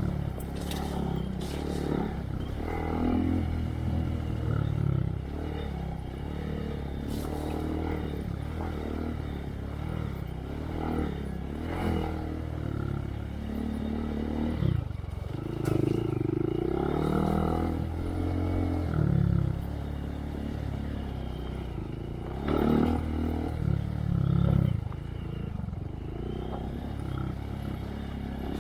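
2023 Honda Monkey's single-cylinder 125 cc engine through a Yoshimura RS3 exhaust with spark arrestor, riding a trail with the revs repeatedly rising and falling as the throttle opens and closes. Scattered knocks and clatter from the bike going over rough ground.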